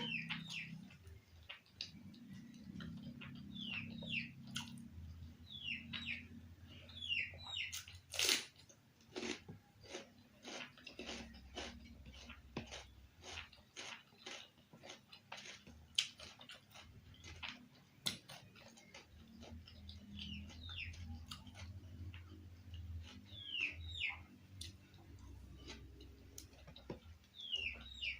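Close-up chewing of squid and eggplant: wet mouth smacks and clicks coming one after another throughout.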